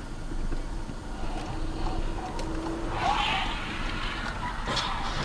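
Road and engine noise of a moving car as picked up by a dash camera: a steady rumble with a faint hum, and a brief higher-pitched sound about three seconds in.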